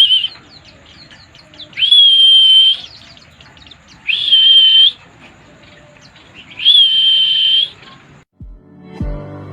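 Caged pleci (white-eye) in full song: three loud, long, level high whistles of about a second each, with faint twittering between them. Music cuts in near the end.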